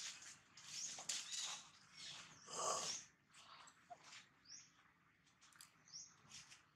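A bird giving short, high, rising chirps every second or two, with one louder, brief noisy burst about two and a half seconds in.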